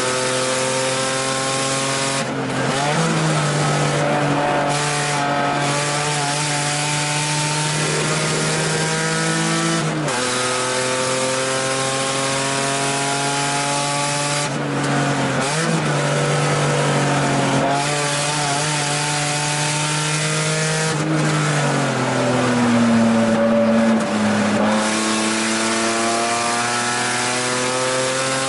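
1989 BMW 325i E30 race car's straight-six engine under hard acceleration, heard from inside the cabin: its pitch climbs through each gear and drops sharply at each shift, several times. Near the end the revs sink low for a couple of seconds, then climb again.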